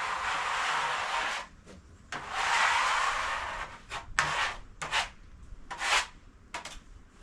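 Rough rubbing or scraping strokes across a wood surface: two long strokes, then three short ones.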